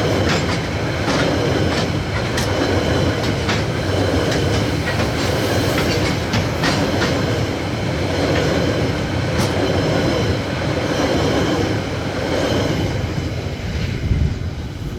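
Loaded freight train rolling past at close range: a steady rumble of wagons, with their wheels clacking sharply over the rail joints. It begins to fade near the end.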